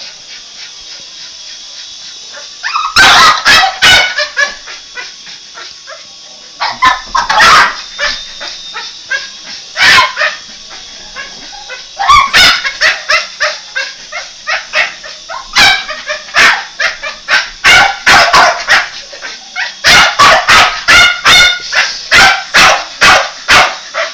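Boston Terrier barking in bursts from about three seconds in, the barks coming thick and fast in the last few seconds, over a steady high-pitched hiss.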